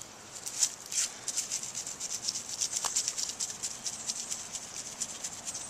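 Rapid repeated scraping or rubbing strokes, about five a second, after two louder strokes in the first second.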